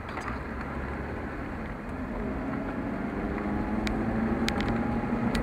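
Car driving with a steady low rumble; the engine note strengthens and rises slightly partway through, with a few sharp clicks and rattles near the end.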